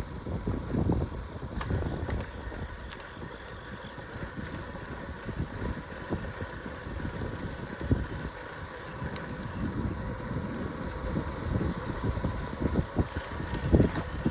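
Wind buffeting the microphone over the low rumble of a bicycle rolling along the trail, swelling in gusts toward the end.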